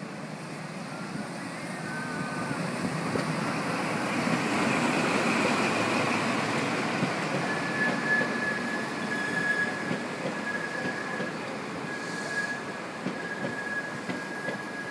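InterCity 125 (HST) arriving: the Class 43 diesel power car's engine and wheels on the rails grow louder as it passes. From about halfway a steady high squeal from the brakes sets in as the coaches slow to a stop.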